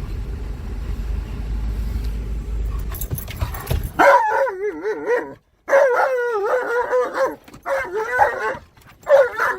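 Low steady rumble of a car cabin for about four seconds. Then an Alaskan malamute breaks into loud howling: long wavering cries that slide up and down in pitch, broken by short pauses.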